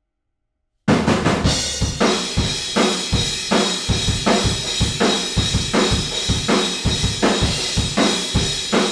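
Acoustic drum kit starting abruptly about a second in with a cymbal crash, then a steady beat of kick, snare and cymbals. It is heard raw through an omni microphone outside the live room.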